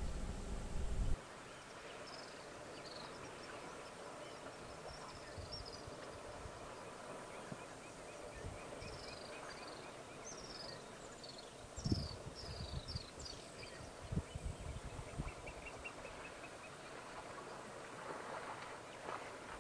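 A low rumble cuts off about a second in, then quiet bush ambience with birds chirping: many short high calls, and twice a quick run of ticking notes. A few short low thumps come near the middle.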